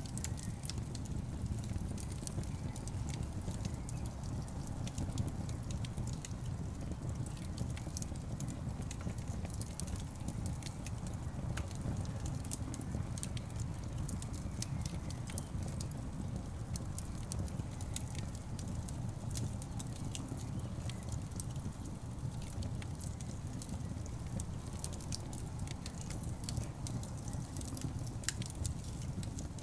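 Burning logs in a fireplace crackling: frequent sharp pops and snaps over a steady low rumble.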